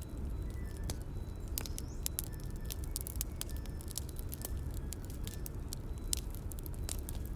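Bonfire burning: wood crackling with frequent irregular sharp pops and snaps over a steady low rumble of flames, with a few faint brief high whistles.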